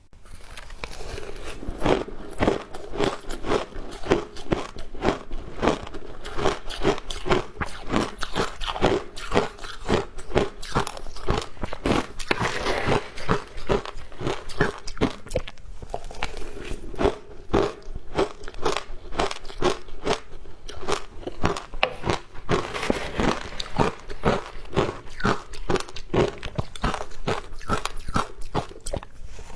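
Ice being bitten and chewed close up: a continuous run of crisp crunches, two to three a second.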